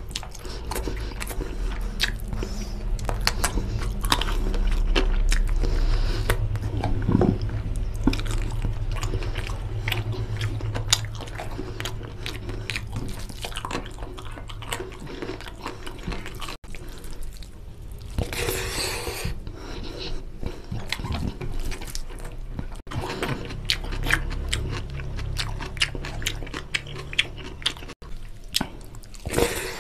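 Close-miked chewing and wet mouth clicks of a man eating chicken drumstick and curry-soaked rice, with fingers squishing and mixing rice in oily curry gravy on a plate. Two short noisy rustles, one a little past halfway and one at the end.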